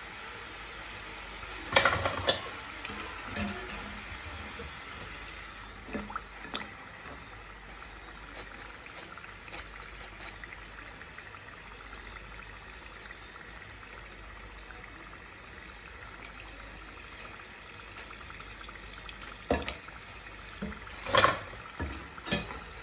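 Potato wedges and fries deep-frying in hot oil, a steady sizzle. A few sharp clatters come near the start and again near the end.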